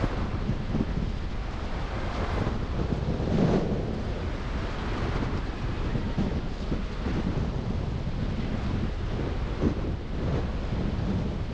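Road and traffic rumble from a car driving through city streets, with wind buffeting the microphone; the noise swells briefly about three and a half seconds in.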